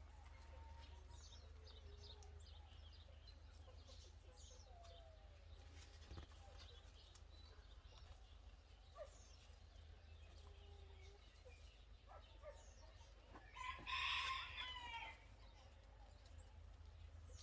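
A rooster crowing once, near the end, over faint scattered bird chirps.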